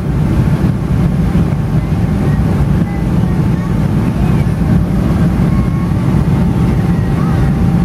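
Boeing 777-300ER in flight: a steady, loud low rumble of engine and airflow noise, with a few faint steady tones above it.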